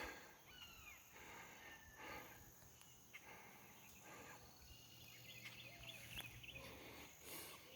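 Near silence outdoors, with faint bird chirps scattered throughout over a steady high insect hum.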